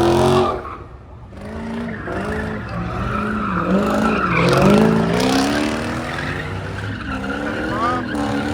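Car engine revving up and down over and over, with tyres squealing as they spin. The sound drops off briefly about a second in, then the revving picks back up.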